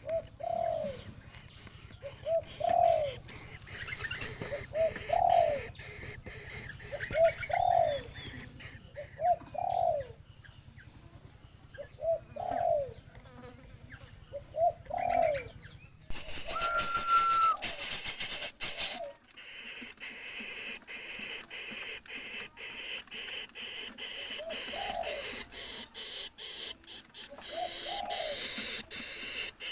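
A dove cooing over and over, each coo a short note that rises and falls, about one every second or so. About halfway through, a loud hiss lasting about three seconds, with a brief whistle-like tone in it, covers the cooing; afterwards the coos continue more faintly among clicking sounds.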